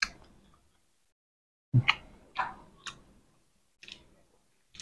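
Close-miked chewing of crunchy food, crispy duck larb with fried dried chilies: a handful of short, sharp crunches and mouth clicks, one at the start and a quick run about two seconds in, with silent gaps between.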